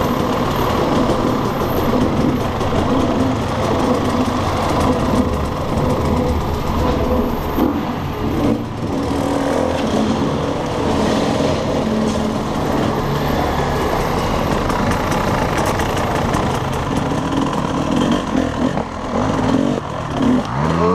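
300cc two-stroke enduro motorcycle engine running while the bike is ridden along a dirt trail, its note rising and falling with the throttle, with noise from the wind and tyres over it.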